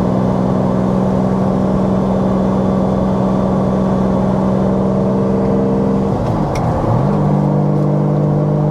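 Mid-mounted 5.7-litre V12 of a 1992 Lamborghini Diablo with a straight-piped exhaust, running steadily at light cruising throttle, heard from inside the cabin. About six seconds in, the engine note dips briefly and comes back a little lower.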